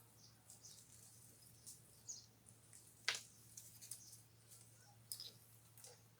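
Near silence: faint room tone with a low hum and scattered light clicks and ticks, one sharper click about three seconds in.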